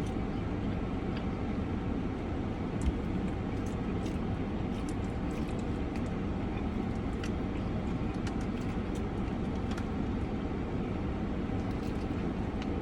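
Steady low rumble of car cabin noise, with scattered faint clicks and a soft knock about three seconds in.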